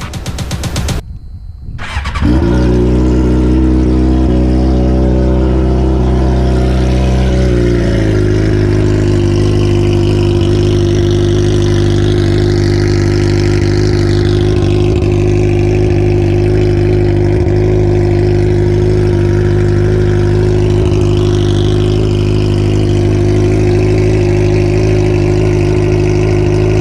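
2007 Suzuki GSX-R inline-four fitted with a straight-pipe exhaust, starting about two seconds in and running loudly at a raised idle. About eight seconds in the idle drops to a lower, steady note.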